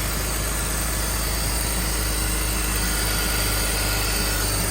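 Car engine idling steadily after a cold start, still cold from sitting overnight.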